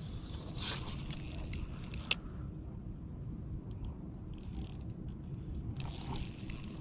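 Light, irregular metallic clicking and rattling from the rod and spinning reel being worked during a carp fight, in two short clusters over a steady low rumble.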